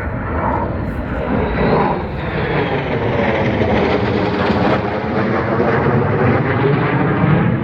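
Fixed-wing aircraft flying overhead: a loud, steady engine drone that swells slightly toward the middle.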